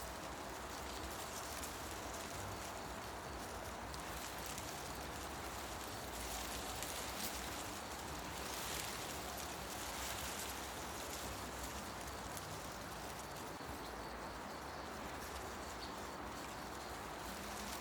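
Wind moving through forest trees, leaves rustling in a steady hiss that swells for a few seconds in the middle, with faint bird chirps now and then.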